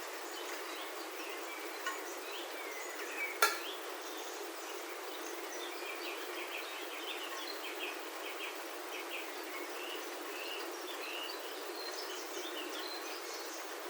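Rain falling on a roof, heard from inside as a steady hiss, with birds chirping repeatedly outside. A single sharp tap stands out about three and a half seconds in.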